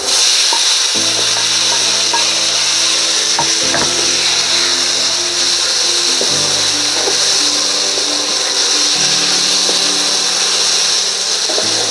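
Fried mushrooms tipped into a pan of hot oil, masala and potatoes, sizzling steadily while a spatula stirs and scrapes them around. Background music with held chords that change every few seconds plays underneath.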